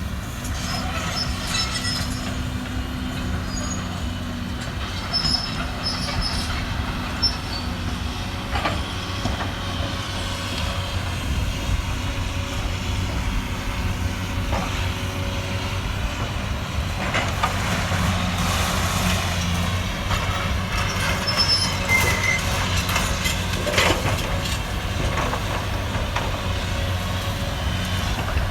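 Caterpillar 320D hydraulic excavator at work: its diesel engine runs steadily under load, with short high metal squeals and scattered knocks and crashes from the machine and the demolition debris.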